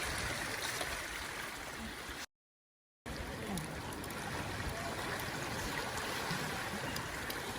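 Seawater washing and trickling among shoreline rocks, a steady hiss. The sound drops out completely for most of a second, a little over two seconds in.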